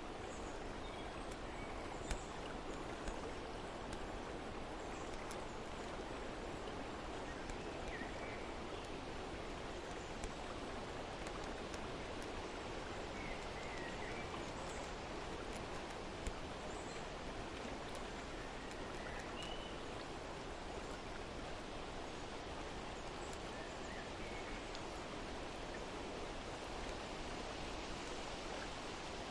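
Steady rush of flowing water, with faint scattered bird chirps and a few brief soft clicks.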